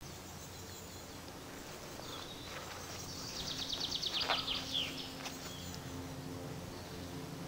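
A songbird sings one fast, high trill of about ten notes a second, lasting a second and a half and dropping at its end, about halfway through. A steady faint outdoor hiss lies underneath.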